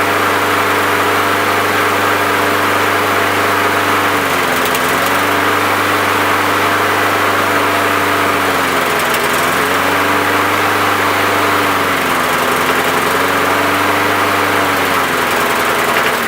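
Small lawn mower engine running as it is run out of fuel and fogged for winter storage. Its speed sags and recovers three times, then falls away right at the end as the engine starts to die.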